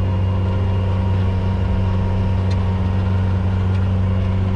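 Steady, unchanging low drone of a motor vehicle's engine.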